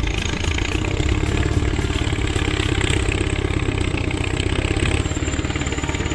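Diesel engine of a T-130 crawler bulldozer running steadily with a fast, even pulse, with a high thin whine above it that drops slightly in pitch about five seconds in.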